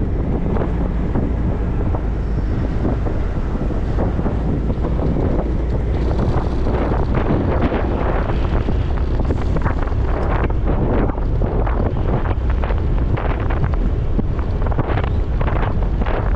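Wind buffeting the microphone of a moving motorcycle in steady, gusting rushes, with the motorcycle's running and road noise underneath.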